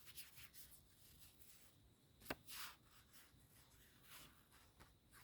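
Near silence with a few faint, brief rustles and one small click a little over two seconds in.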